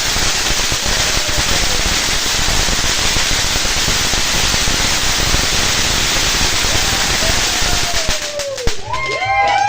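Firework crackling and hissing continuously with a dense rapid patter of small pops, stopping abruptly about eight and a half seconds in. Voices follow near the end.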